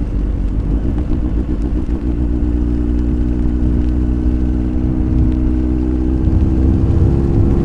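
Kawasaki ZX-9R's inline-four engine running at a low, even pitch while the bike is ridden; the note wavers a little at first, then holds steady from a couple of seconds in.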